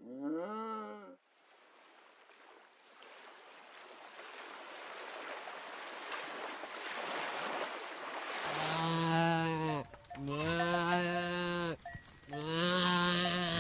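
A short wavering call, then a hiss that swells for several seconds, then sheep bleating three times in long, steady calls with short gaps between them.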